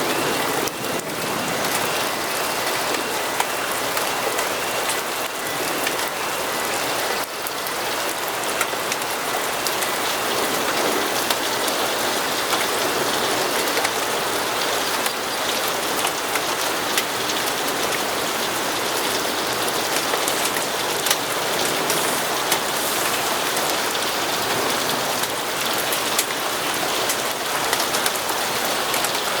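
Steady rain on a surface, an even hiss dotted with many small drop ticks.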